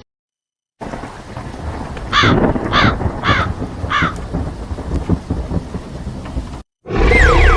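Thunderstorm sound effect: a steady rumble of thunder and rain, with four short harsh caw-like calls in its first half. Near the end it cuts out briefly and a new loud sound with falling pitch starts.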